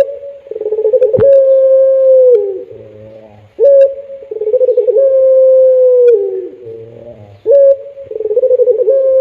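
Puter pelung dove cooing: three long drawn-out calls about every three and a half seconds. Each opens with a short note, flutters, then holds a long note that sags in pitch at the end. A single sharp click comes about a second in.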